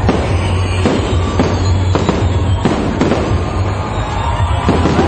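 Aerial fireworks bursting overhead in a string of sharp bangs with crackle, roughly one every half second to second, with music playing in the background.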